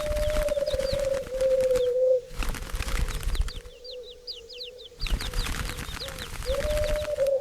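Turtle dove purring: a long low purr at the start and another near the end. Between them small birds give quick high chirps over a steady rustling noise.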